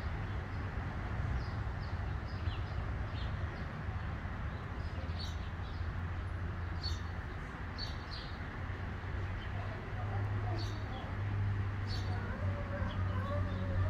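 Outdoor ambience: small birds giving short, high chirps every second or so over a steady low hum.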